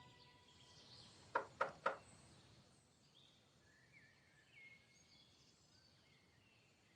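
Three quick knocks on a door, close together, followed by faint bird chirps.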